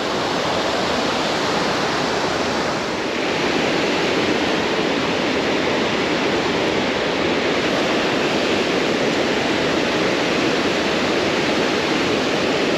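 Steady rushing of river water pouring over a low-head roller dam, growing a little louder about three seconds in.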